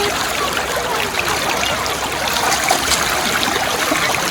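River water flowing steadily, a continuous rushing trickle of the current.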